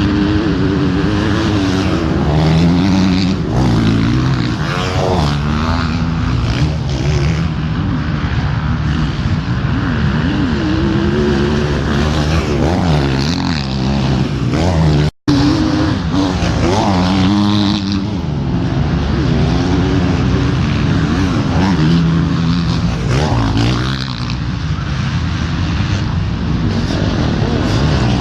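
Several motorcycle engines running and revving, their pitch repeatedly climbing and falling as they accelerate and back off. The sound cuts out for an instant about halfway through.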